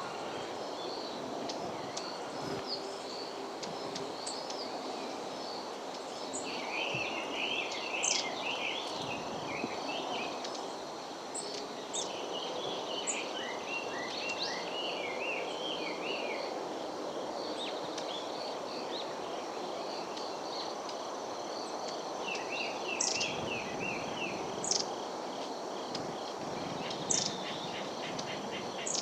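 Small wild songbirds calling: several bursts of quick chattering notes and a few sharp, high, falling call notes. Under them is a steady high insect trill and a constant low background noise.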